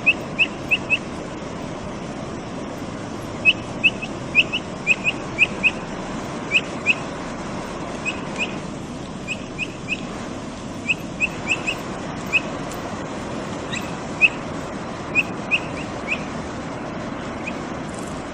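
Capybara piping: short, high chirping whistles repeated in irregular runs of two to five, over a steady background hiss.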